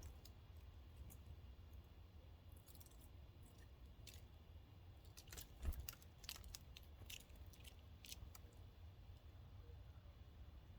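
Small birds at a log feeder: scattered faint, high, quick ticks and short chips over a low background rumble, with one louder knock a little past halfway.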